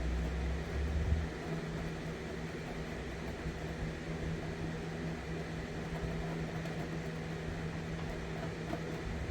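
Steady mechanical hum with a constant low tone, like a fan or air-conditioning unit running, with a deeper rumble for about the first second.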